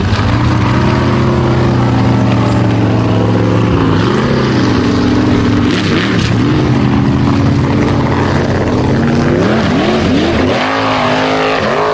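Formula offroad buggy's engine running hard under load as it climbs a steep dirt slope. The pitch holds fairly steady at first, then rises and falls quickly several times near the end as the throttle is worked.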